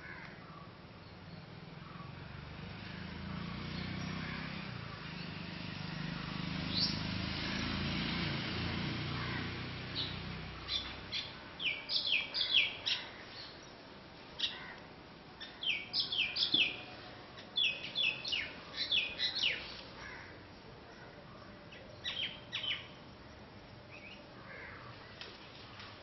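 Small birds calling in the tree canopy: clusters of short, sharp, high chirps, each sweeping steeply downward, coming in quick groups through the middle of the clip. Before them, a low, steady rumble swells and fades away over the first several seconds.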